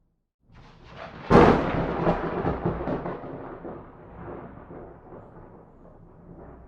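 A single thunderclap: a low rumble builds, a sharp loud crack comes about a second in, and the thunder then rolls on and slowly fades over several seconds.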